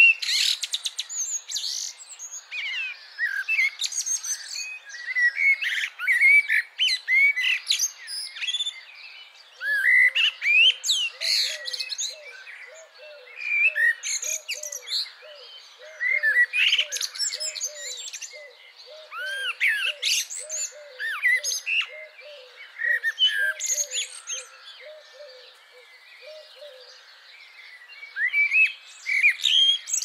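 Several birds calling and chirping in quick, overlapping bursts. Through the middle a lower call repeats about twice a second.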